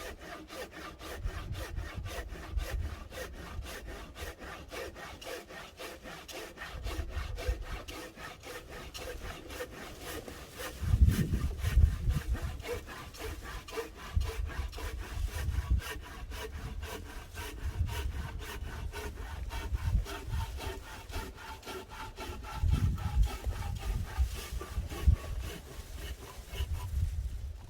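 A saw cutting through firewood with steady, rapid back-and-forth strokes, with a few heavier knocks partway through.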